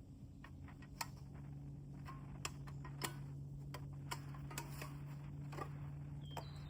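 Wood campfire crackling, with irregular sharp pops and snaps, over a steady low hum.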